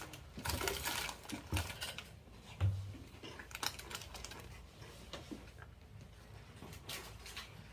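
Crunching of thick, ridged Ruffles potato chips as they are bitten and chewed: a dense run of crisp crackles, busiest in the first few seconds and thinning out after, with a couple of dull thumps.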